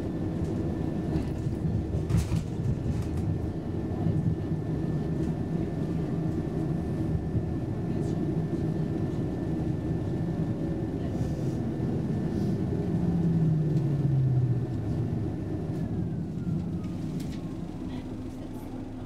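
Heard from inside the passenger car, an X10p electric commuter train running on rails with a steady rumble and a few light clicks, its electric motor whine gliding down in pitch as it slows into a station; the running sound eases off near the end.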